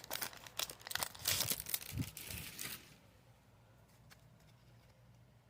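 Foil Pokémon booster-pack wrapper crinkling and tearing as the pack is opened, the crackle stopping about three seconds in.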